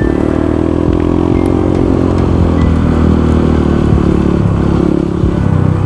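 Motorcycle engine running under way, holding a fairly steady pitch that sags slightly and picks up again.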